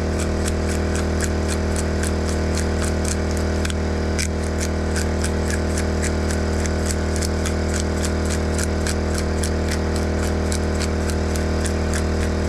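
Pepper grinder being twisted, a quick, even run of clicks at about four or five a second, over the steady hum of a generator.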